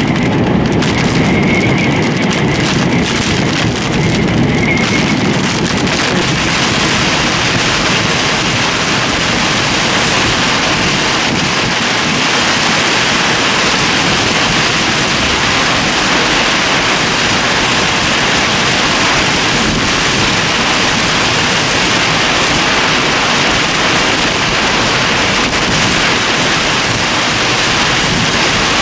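Torrential rain, a loud steady hiss. In the first six seconds separate drop hits and a low rumble stand out, then it settles into an even wash of noise.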